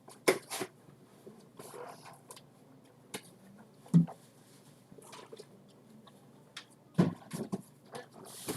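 Scattered handling noises: light clicks and rustles of objects being moved, with two louder knocks about four and seven seconds in.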